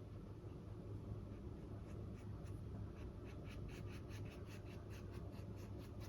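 Paintbrush dabbing thick white acrylic paint onto a stretched canvas, a quick run of light scratchy taps, about five a second, starting about two seconds in.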